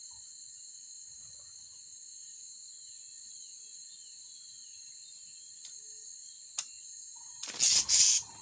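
Steady high-pitched drone of insects, with faint, short falling chirps repeating behind it. Near the end there is a sharp click, then a burst of loud noisy knocks and rustling close by.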